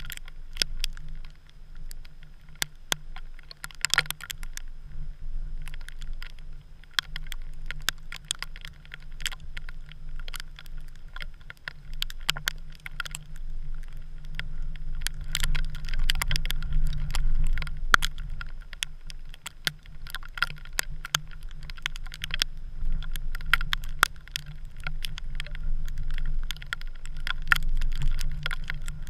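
Wind rumbling on the camera in a snowstorm, with many sharp, irregular ticks and clicks on top.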